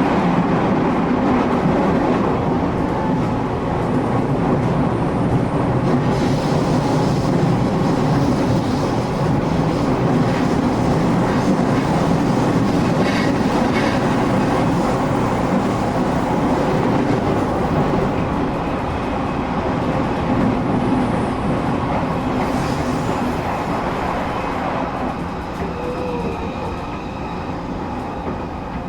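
Interior of a moving passenger train: a steady rumble of the wheels running on the rails, with faint clicks and squeaks over it. The rumble eases down a little near the end.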